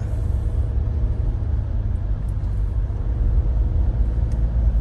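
Car driving, heard from inside the cabin: a steady low rumble of engine and road noise with a faint steady hum above it.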